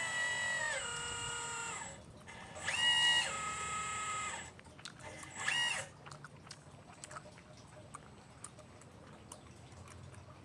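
RC model excavator's electric drive motors whining in three bursts as it is worked, the pitch stepping down within each burst: a long one at the start, another about two and a half seconds in, and a short one around five seconds. After these come only faint clicks and rattles.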